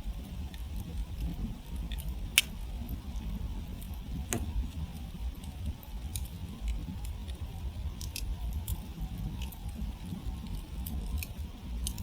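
Campfire burning down to glowing embers, the wood crackling with scattered sharp pops over a low rumble. One pop stands out louder, about two seconds in.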